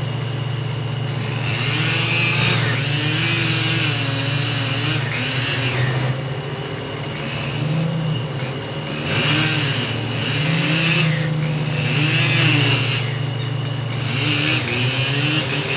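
Stihl MS 880 two-stroke chainsaw with a 36-inch bar running at high speed while cutting, its pitch sagging and recovering again and again as the bar loads up, with recurring stretches of rasping higher noise from the chain in the wood.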